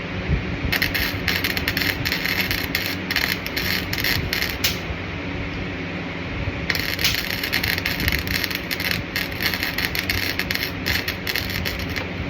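Electric arc welding crackling in two runs: the first starts shortly in and lasts about four seconds, then after a pause of about two seconds a second run lasts about five seconds. A steady low hum continues underneath.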